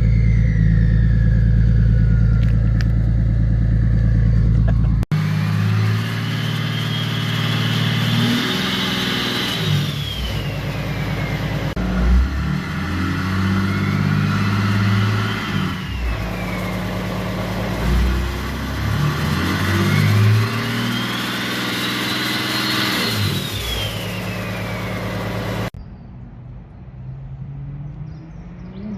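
A BMW 330d's three-litre straight-six diesel with a big turbo and a straight-through 4-inch exhaust, revved hard again and again. A loud turbo whistle rises and falls with each of three long revs, over a choppy, banging exhaust note typical of a hardcut rev limiter. It opens on a steady high-rev drone with the whistle falling away, and ends on a quieter stretch.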